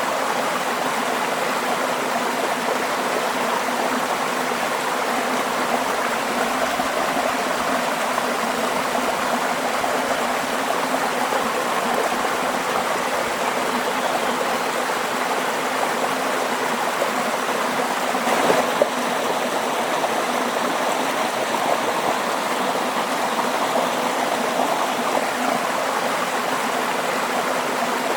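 Waterfall: a steady, even rush of falling water, with one brief louder click about two-thirds of the way through.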